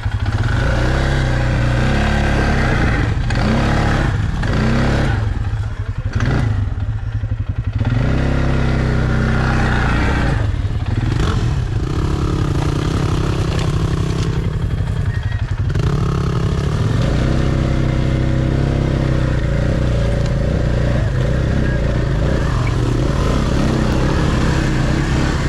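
Off-road vehicle engine running on a rough trail, its revs rising and falling, with knocks and rattles between about three and eight seconds in.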